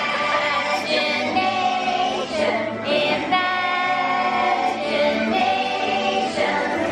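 Ride soundtrack music: a choir of voices singing long held notes over a band.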